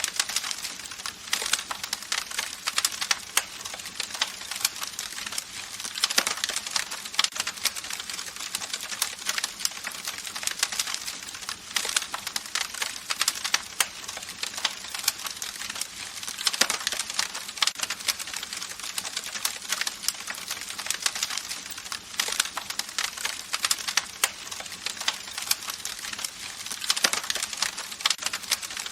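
Campfire crackling: a dense, steady run of small pops and snaps, with a few louder pops now and then.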